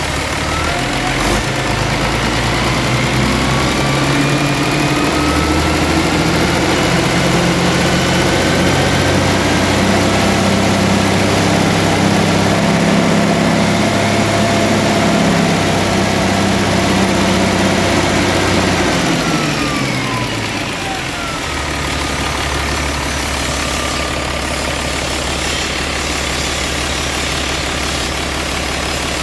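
Mitsubishi 6D22 straight-six diesel engine speeding up slowly and holding at higher revs, then dropping back quickly about twenty seconds in and settling into a steady idle.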